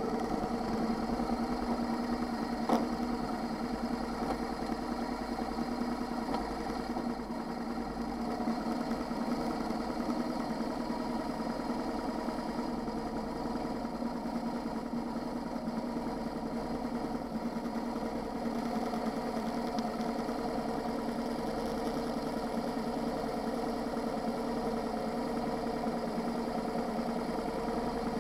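Motorcycle engine idling steadily with the bike stopped, with one short click about three seconds in.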